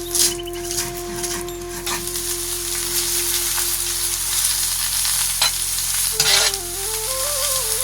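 Steady hissing noise with a few light clicks, and a thin melody of held notes that moves up and down in small steps in the second half.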